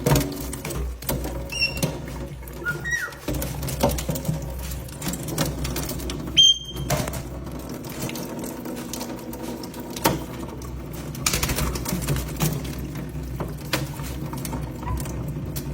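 Water from a small pet-bird waterfall pattering and splashing over a low steady hum, with a few short high chirps from parrots.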